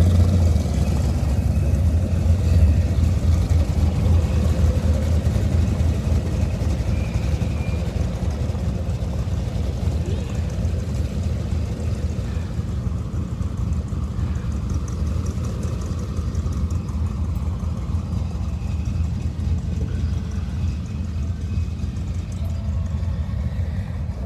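A line of cars driving slowly past, giving a steady low rumble of engines and tyres that is loudest in the first few seconds.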